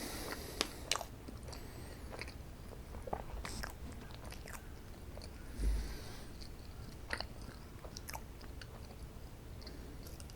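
A person biting and chewing strawberry sweets close to the microphone: irregular small crunches and mouth clicks, with a soft low thud about halfway through.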